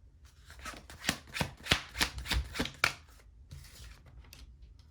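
A deck of tarot cards being shuffled by hand: a quick, irregular run of card slaps and clicks for about three seconds, then a softer brush of cards.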